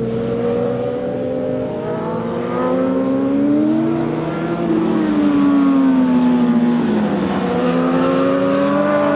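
A vehicle engine running under load, its pitch climbing, then falling away, then climbing again as the revs change.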